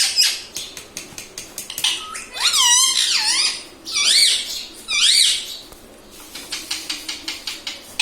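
Indian ringneck parrot giving squeaky, warbling calls that waver up and down in pitch, three loud ones in the middle, with runs of quick clicks before and after.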